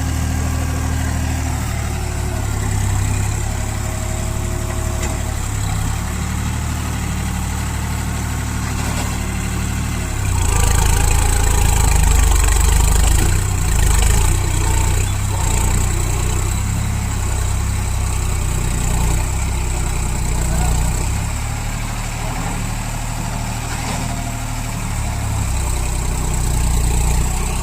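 New Holland 3630 tractor's three-cylinder diesel engine running while it works a backhoe loader attachment. The engine runs steadily, then gets louder about ten seconds in as it takes on load, eases back for a few seconds past the twenty-second mark and picks up again near the end.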